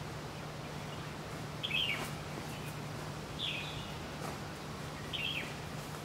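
A small bird chirping: three short, high chirps, roughly two seconds apart.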